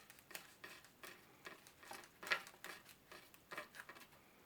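Sharp knife trimming the front edge of a styrofoam wing: a series of faint, irregular crackles and squeaks as the blade drags through the foam, loudest about two and a half seconds in.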